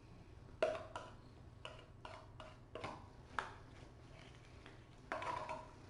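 A spoon or utensil clinking and tapping against a dish while kitten food is prepared: a series of separate sharp clicks, then a short scraping sound near the end.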